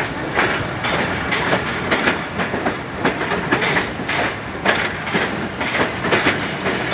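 Passenger train coaches rolling past close below, their wheels clattering over the rail joints in a quick, uneven series of clacks over a steady rumble.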